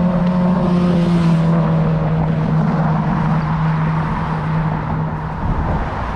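A motor vehicle's engine running steadily nearby as a low, even hum over street noise, dropping away about five seconds in.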